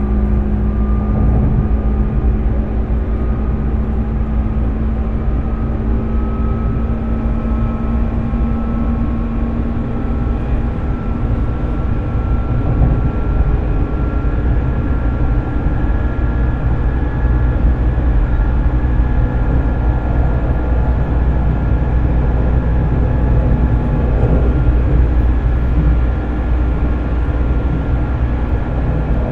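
JR 205 series electric train running, heard in motor car MoHa 205-384: the whine of its externally-ventilated MT61 DC traction motors and gears rises slowly in pitch as the train picks up speed, over a steady low running rumble.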